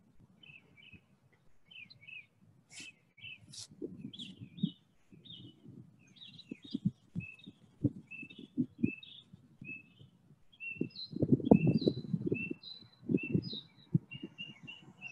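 Small birds chirping in a quick, steady run of short high notes, over low scratchy rubbing from a pencil shading on a sketch pad. The scratching is loudest about eleven seconds in.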